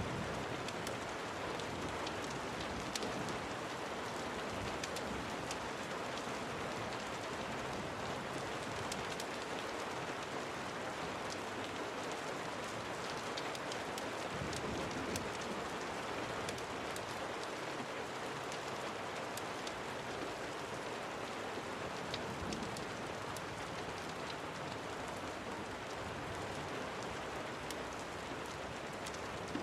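Steady rain falling, an even hiss with many scattered sharp ticks through it.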